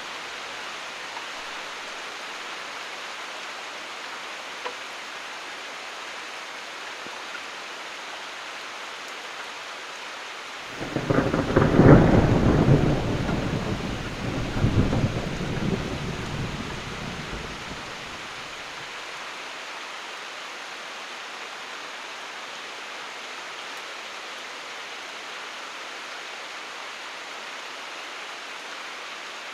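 Steady rain with a roll of thunder about a third of the way through: the thunder rumbles in suddenly, peaks, swells once more and fades away over several seconds while the rain goes on.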